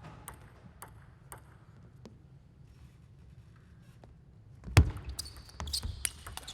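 Table tennis ball clicking: three even bounces about two a second, then after a pause a loud thump and a quick run of sharp ball clicks.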